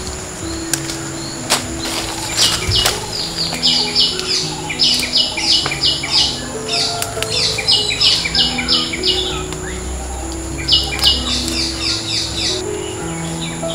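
A bird chirping in quick runs of short, sharp, high notes, about four to five a second, in several bursts, over soft background music with slow held notes and a steady high-pitched tone.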